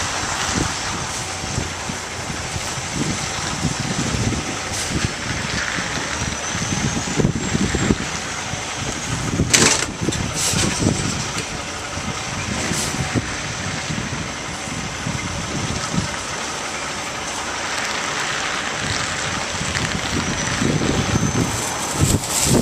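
Delivery truck engine running, with wind buffeting the microphone. A sharp click comes about nine and a half seconds in.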